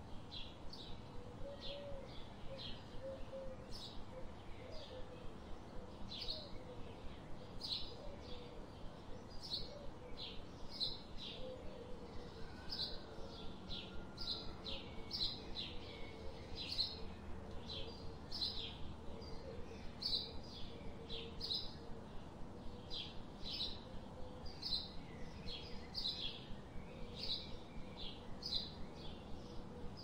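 Birds chirping: short, high chirps repeated about twice a second, with fainter, lower wavering calls underneath, mostly in the first half.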